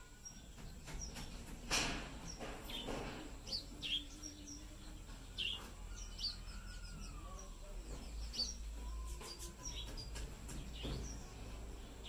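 Small birds giving short, high chirps, scattered irregularly, with a few brief clicks, the loudest about two seconds in.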